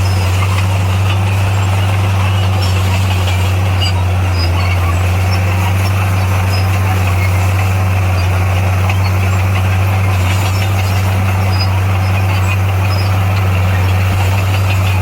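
Heavy earthmoving machine's diesel engine running at a steady, unchanging pitch, with a deep hum.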